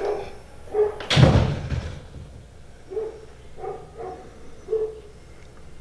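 A door slams shut with a heavy thump about a second in. Several short, high whines from an excited dog follow.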